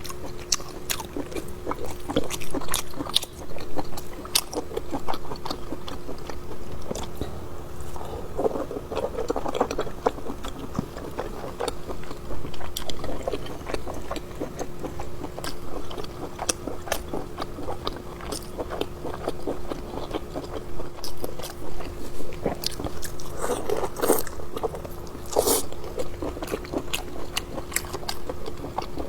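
Close-miked chewing and biting of braised pork small-intestine sausage: dense, irregular mouth clicks and smacks.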